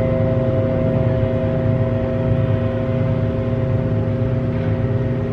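Singing bowls ringing together as a sustained chord of several steady overlapping tones over a low, wavering hum, played as sound healing.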